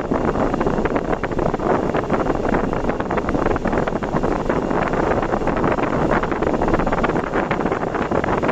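Steady rush of wind and road noise from a vehicle travelling at expressway speed, with wind buffeting the microphone.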